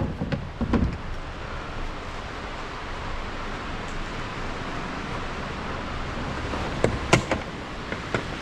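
Steady rushing of the Thompson River running high, with a few sharp knocks in the first second and a couple more about seven seconds in.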